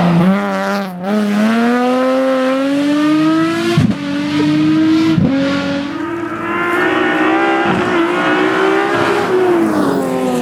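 Nissan 370Z GT+ rally car's V6 engine accelerating hard, its note climbing steadily with brief breaks at gearshifts about four and five seconds in. It holds high revs, then drops in pitch near the end as the driver comes off the throttle.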